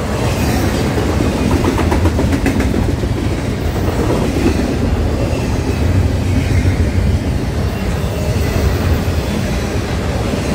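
Double-stack intermodal container train passing close by at speed: a loud, steady rumble and clickety-clack of steel wheels over the rail, with faint high squeals now and then.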